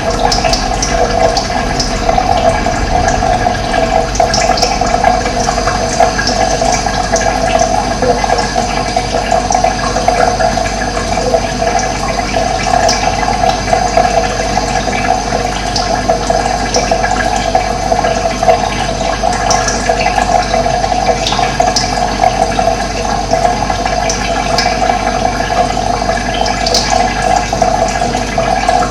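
Running water, a steady, continuous flow, with short high sounds scattered through it now and then.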